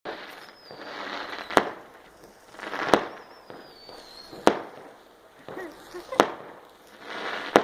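Fireworks going off in a steady series: five sharp bangs about a second and a half apart, each preceded by a rising hiss.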